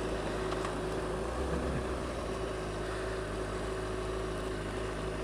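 Steady hum of a vehicle in motion, engine and road noise mixed, with a faint steady tone running through it.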